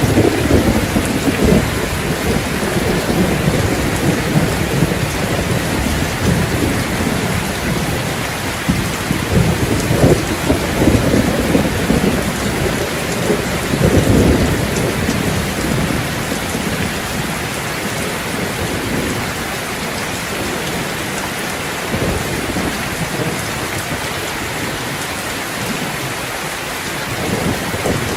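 Steady heavy rain pattering on hard surfaces. Deeper rumbling swells rise through it at the start and again about ten and fourteen seconds in.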